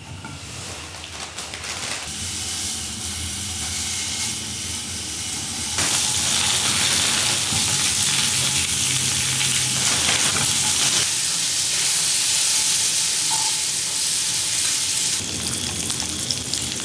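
An egg sizzling as it fries in a pan. The sizzle grows louder over the first couple of seconds and steps up sharply about six seconds in.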